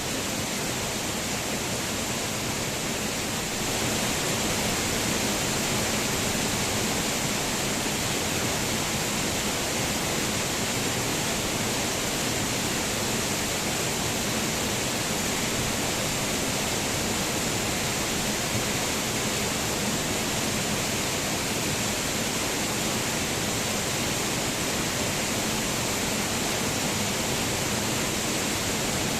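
Waterfall pouring: a steady, even rush of falling water that gets slightly louder about four seconds in.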